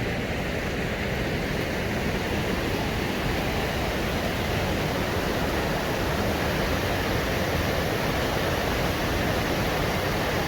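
River rapids rushing: a steady, loud roar of water.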